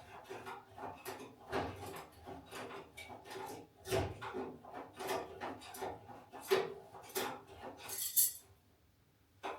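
Irregular clatter and knocks of hard objects being handled, about one or two a second, with a short hiss near the end, after which it goes quiet.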